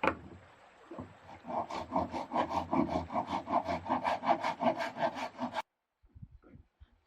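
A handsaw crosscutting a wooden plank in quick, even strokes, about four or five a second, which stop abruptly near the end.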